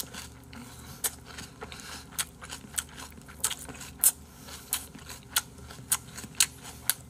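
Close-up chewing with the mouth open: a steady run of short wet smacks and clicks, about three a second, from a mouthful of boiled pork and chewy rice cake.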